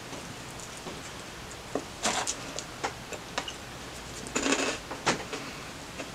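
Close-miked mouth sounds of a person chewing a bite of steak and cheese sandwich: wet clicks and smacks, with short louder bursts about two seconds in and again around four and a half to five seconds.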